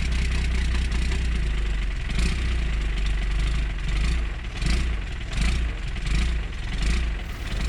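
12-valve Cummins 6BT diesel running rough just after a cold start in 7°F weather, with no glow plugs, grid heater or block heater. It runs evenly at first, then surges and sags about every 0.7 s from about two seconds in: the engine is not happy in the cold.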